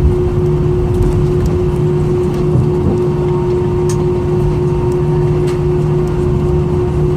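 Steady cabin noise inside an Airbus A320, a continuous hum with a strong steady tone from the aircraft's engines and air systems running on the ground, with a few faint clicks.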